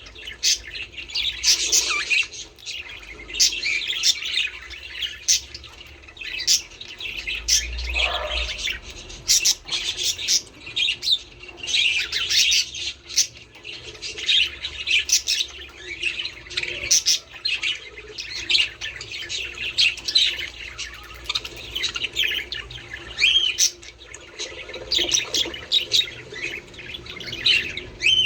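A flock of budgerigars chattering and chirping nonstop, with many quick, overlapping warbles and squawks.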